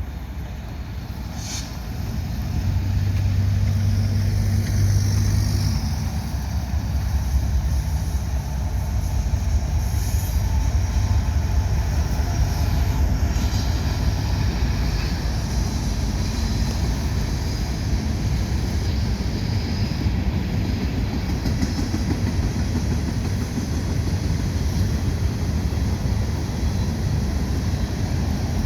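Norfolk Southern freight train rolling past, a steady low rumble that swells about two seconds in and then holds.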